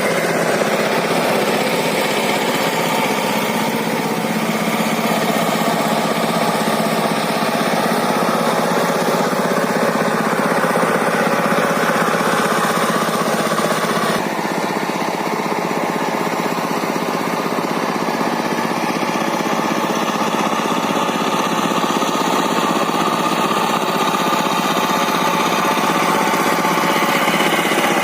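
Small diesel engine of a two-wheel walking tractor with a rotary tiller, running steadily under load with a rattly diesel beat, its tone shifting slightly about halfway through.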